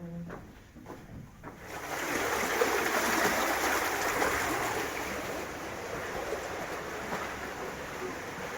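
Waterfall: a steady rush of falling water that comes in suddenly about two seconds in, after a quieter start with a few light knocks.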